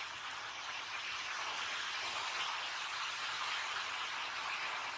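Heavy rain falling steadily outside, heard through an open doorway as an even hiss.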